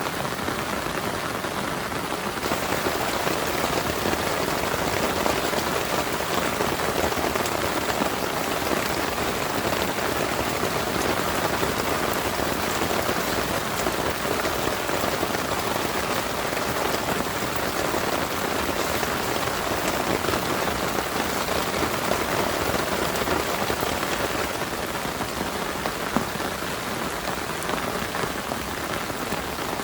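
Heavy rain falling steadily and hitting a surface, a dense even patter with a few louder single drops.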